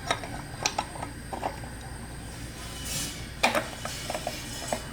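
Scattered metal clinks and knocks from hand tools and engine parts being handled, with a short hiss about three seconds in and a sharper knock just after, over a steady low hum.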